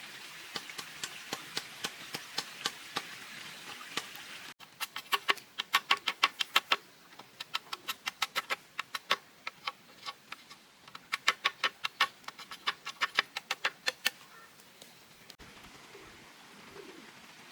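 Quick series of sharp knocks, about three or four a second, in runs of a few seconds broken by short pauses.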